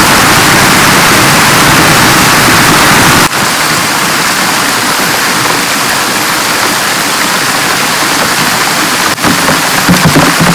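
Heavy rain falling steadily, a loud even hiss. About a third of the way in it changes abruptly and becomes slightly lighter, then grows more uneven near the end.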